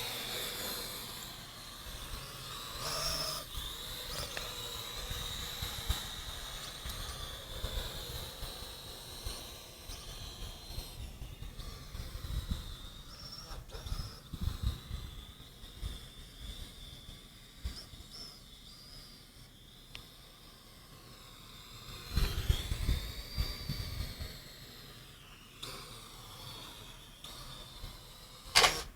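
Parrot AR.Drone 2.0 quadcopter's electric rotors whining at a high pitch that wavers and shifts as the drone manoeuvres, over uneven gusty rumble. The rumble is loudest a few seconds in and again after about twenty seconds.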